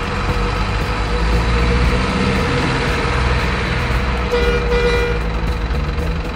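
Truck engine sound running steadily with a low drone, and a short horn toot about four and a half seconds in.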